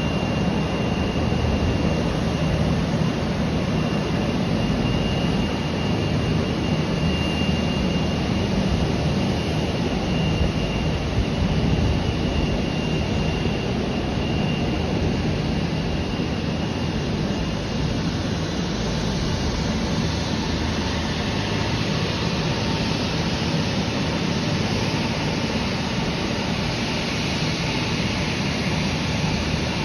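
Jet airliner's turbofan engines running steadily as the aircraft taxis: a continuous rumble with a thin high whine that fades out about halfway through.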